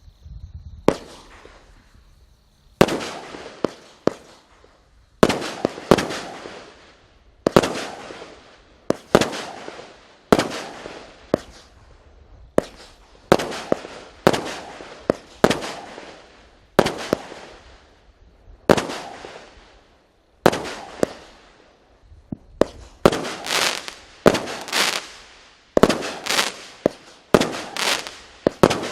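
A 36-shot, 0.8-inch firework cake firing its shots one after another. Each sharp launch is followed by a fading burst. The shots come about once a second at first and more quickly, in pairs, in the last few seconds.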